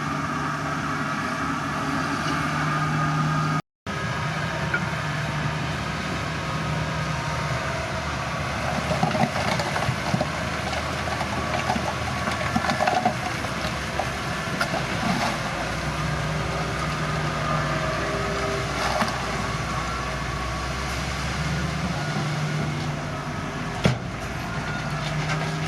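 Diesel engine of heavy earthmoving machinery running steadily, with irregular metallic clanks and rattles partway through and a single sharp knock near the end. The sound cuts out for a moment about four seconds in.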